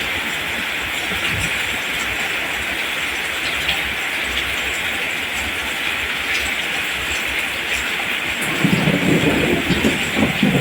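Steady rain falling, an even hiss, with a low rumble swelling in about two thirds of the way through.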